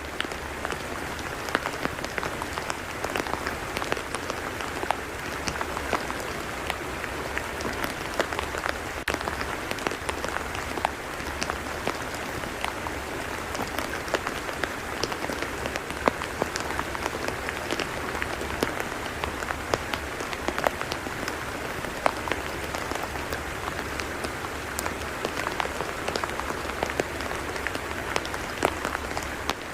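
Steady rain falling on a tidal mudflat, a constant hiss dotted with many sharp ticks of individual drops.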